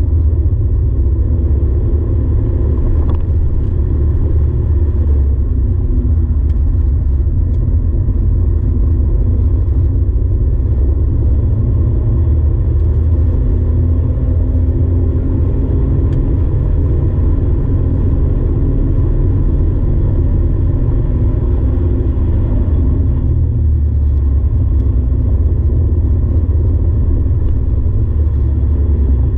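Porsche 964's air-cooled flat-six engine at track speed, heard from inside the cabin, its note rising and falling over a heavy low rumble.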